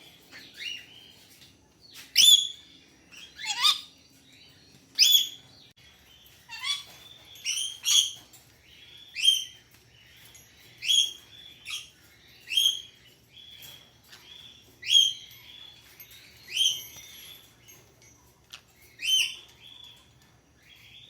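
Green-cheeked conure giving short, sharp, repeated chirping calls, each a quick downward sweep, about one a second.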